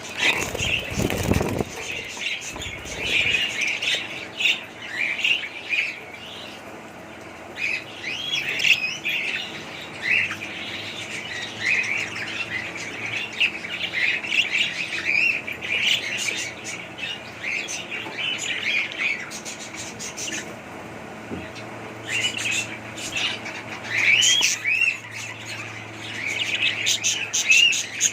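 Budgerigars chirping and warbling: many short, high chirps with quick rises and falls in pitch, overlapping continuously. A low rumble sounds in the first two seconds.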